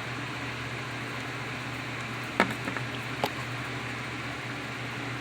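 Two short, sharp clicks a little under a second apart, from small metal tools such as tweezers being handled at the bench, over a steady background hum.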